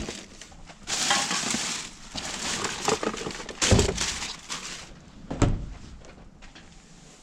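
Rummaging through thrown-out rubbish: crinkling and crunching of bags and packaging, with a sharp knock at the start and two more knocks partway through.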